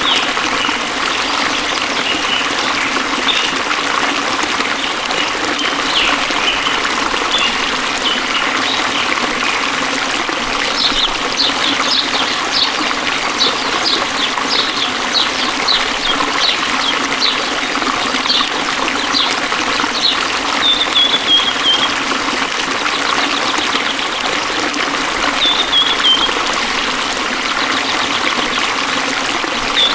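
Steady trickling and flowing of a forest stream. Over it, a bird calls: a run of quick high chirps through the middle, then short falling phrases later on.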